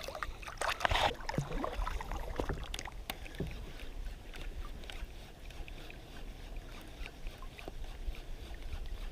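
Scattered small clicks and knocks, with faint water sounds, from a fishing kayak and the gear being handled in it.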